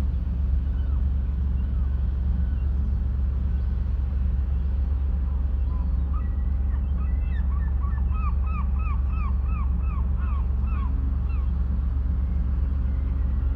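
A bird calling with a quick run of short chirps, a few a second, between about six and eleven seconds in, over a steady low rumble that fills the whole stretch.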